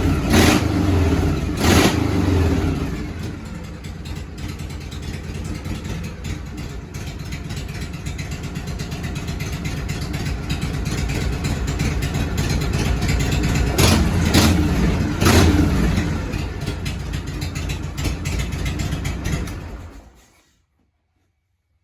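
Harley-Davidson Shovelhead V-twin engine revved twice at the start, then idling, blipped twice more about two-thirds of the way through, and stopping suddenly near the end.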